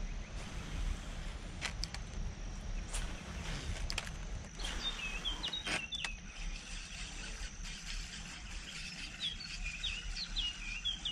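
Small birds chirping in quick, short notes from about four seconds in, over a steady thin high tone and a low rumble, with a few sharp clicks.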